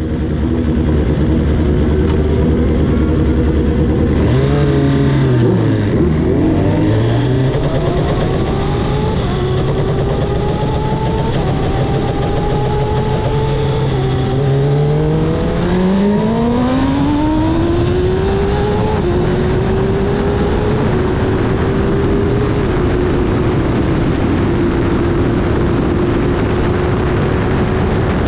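Kawasaki ZXR750 race bike's inline-four engine heard from on board: held at steady revs with a quick blip a few seconds in, then revving up hard as the bike pulls away, the pitch dropping at each upshift, and settling into a steady high drone at speed.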